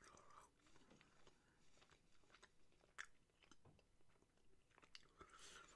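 Faint mouth sounds of a person chewing a soft, chewy Hi-Chew fruit candy: scattered small clicks, one a little louder about three seconds in.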